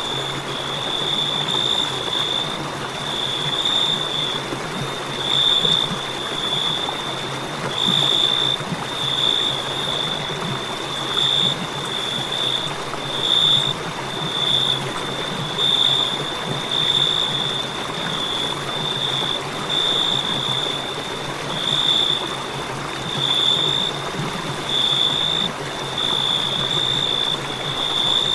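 Crickets chirping in a continuous high trill that swells about once a second, over a steady background hiss.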